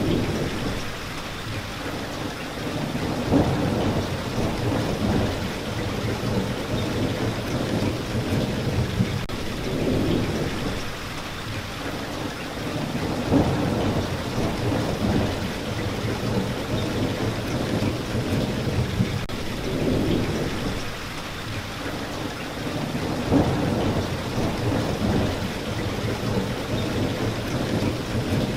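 Steady rain, an even hiss throughout, with low rumbles that swell and fade roughly every ten seconds.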